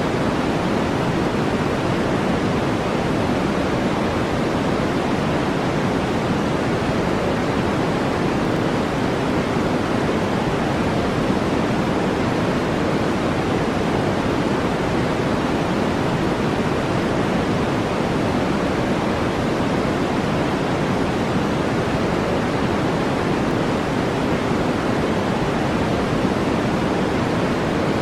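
Steady generated noise with a deep, even hiss and no changes. It is darker than white noise, with most of its weight in the low and middle range.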